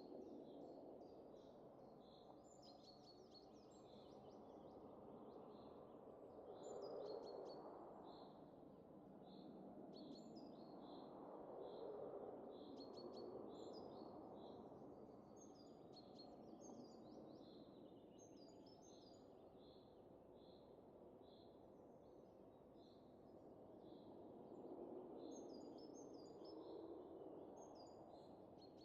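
Faint wind rising and falling in slow gusts, with small birds chirping: one repeats a short high note about twice a second while others call briefly over it.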